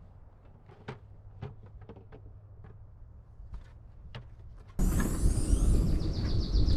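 Scattered soft clicks and knocks of small objects being handled. About two-thirds of the way in the sound changes suddenly to a louder low rumble with birds chirping over it.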